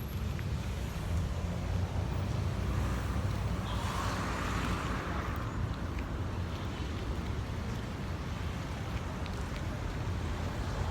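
Street traffic outdoors with a steady low rumble of wind on the microphone, and a vehicle hissing past on the wet road about four seconds in.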